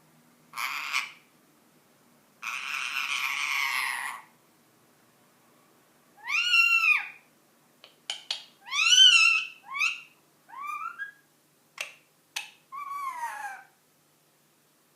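Ringneck parakeet making a short raspy noise, then a longer raspy one, followed by a series of short squawking calls that arch up and down in pitch, two sharp clicks, and a last call falling in pitch.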